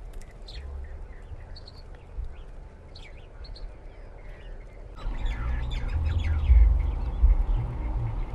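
Small birds chirping in quick, short calls. About five seconds in, a much louder low, uneven rumble sets in beneath them.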